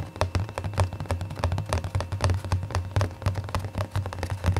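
Fast ASMR tapping, many quick light taps a second in an uneven run, over a steady low hum.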